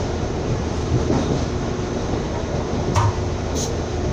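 Train running, heard from inside the carriage: a steady low rumble of wheels on the track. About three seconds in there is a sharp knock, followed just after by a brief high hiss.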